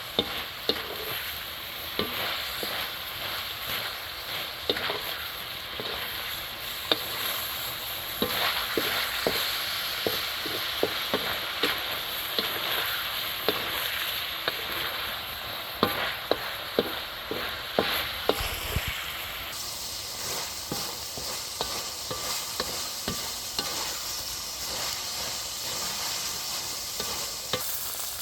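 Food sizzling in hot oil in a cooking pot while being stirred, with frequent sharp scrapes and clicks of the spoon against the pot over a steady sizzle.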